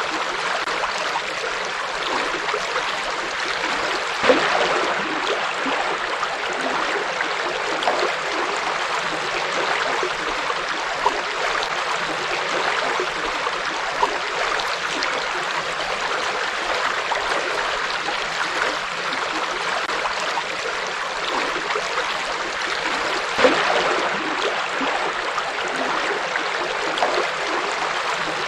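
River water flowing and babbling, a steady rushing wash with small splashes now and then, the clearest about four seconds in and near the end.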